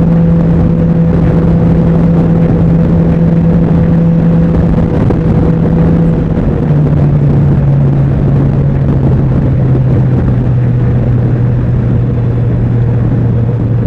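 Can-Am Ryker three-wheeler's engine running steadily while riding. About halfway through the engine note steps down, then slowly sinks lower.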